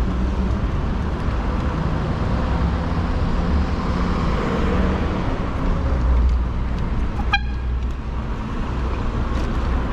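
Steady road and traffic noise heard from a moving e-bike, with one very short horn toot about seven seconds in, a warning to a driver about to pull out.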